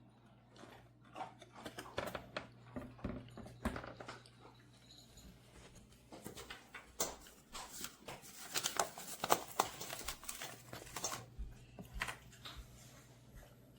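Scattered clicks, taps and rustling of small things being handled, busiest about halfway through, over a steady low hum.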